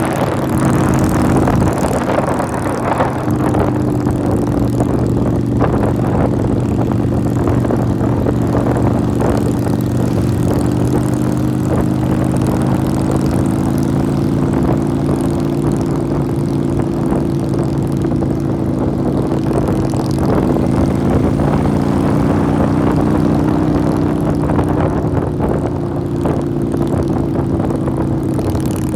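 Motorcycle engine running at a steady cruise, its pitch shifting a little with throttle, over a continuous rush of wind noise.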